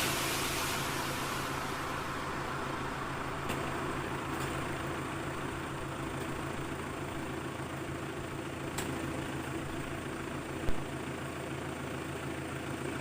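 Truck engine running steadily at idle, with a few faint clicks and one short thump late on.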